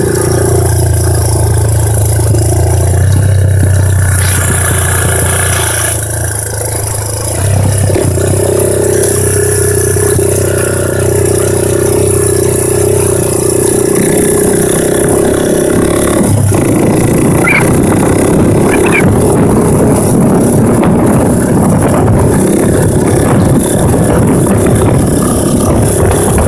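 Honda ATC 200X three-wheeler's single-cylinder four-stroke engine running through an aftermarket DG exhaust while being ridden. It holds a steady note, changes pitch about 8 seconds in and again about 14 seconds in, then sounds rougher toward the end.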